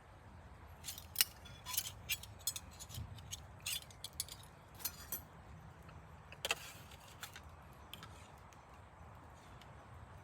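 A series of light, irregular metallic clinks and rattles, as of small hard objects being handled, over a low steady background. The clinks come in a cluster from about a second in and die away a few seconds before the end.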